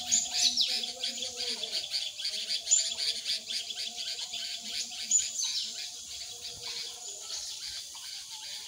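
Many birds chirping rapidly and continuously, with a few louder calls sweeping down in pitch near the start, at about three seconds and at about five seconds.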